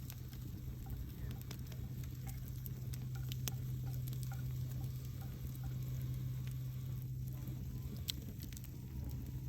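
Campfire crackling, with scattered sharp pops and snaps over a low steady hum.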